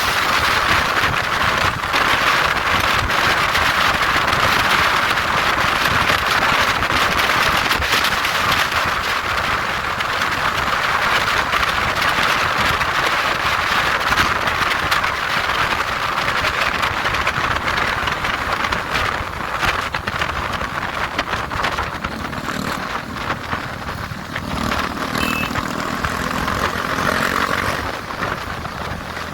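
A moving motorcycle: a steady rush of wind and road noise, with the engine running under it. A low engine note comes up about two-thirds of the way in.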